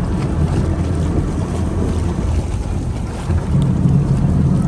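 Boat motor running with a steady low rumble, wind buffeting the microphone.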